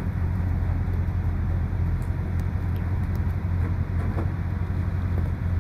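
Heavy engine running steadily at constant speed with a deep, even hum, with a few faint clicks over it.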